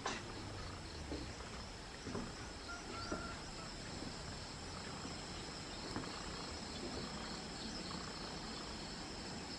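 Faint, steady insect chorus: two high, unbroken tones that run on without a break, with a few soft knocks here and there.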